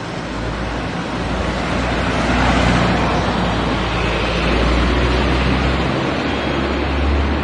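Loud, steady rushing noise with a deep low rumble underneath and no distinct calls.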